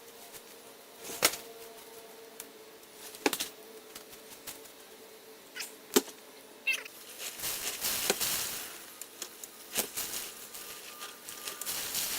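Scattered sharp knocks and clicks, a short high squeak about seven seconds in, then a stretch of rustling noise.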